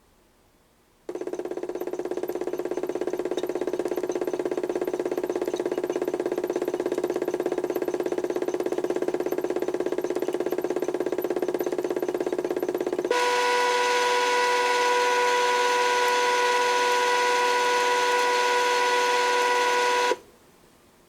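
HUSTOO 775 DC motor of a modified toy washing machine running under PWM control, driving the drum through a pulley. It starts suddenly and runs steadily, switches about twelve seconds later to a higher-pitched whine, and stops abruptly about a second before the end.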